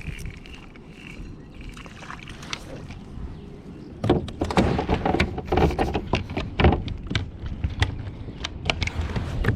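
Sounds of a kayak on the water: a quieter stretch, then from about four seconds in a dense run of irregular knocks, clicks and splashes against the hull.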